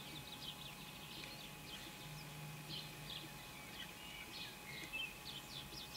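Small birds chirping and twittering: many short, high calls, often falling in pitch, scattered throughout, over a faint low hum.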